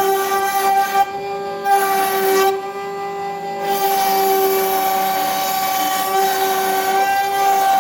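CNC router spindle running at a steady high-pitched whine while the bit carves wood, with a rough cutting hiss over it that drops out twice, about a second in and again around three seconds in.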